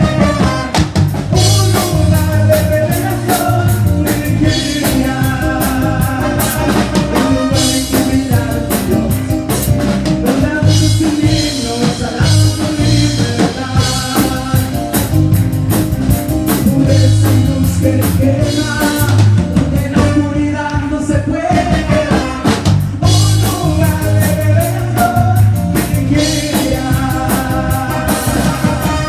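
Live band music: a song with a drum kit and singing.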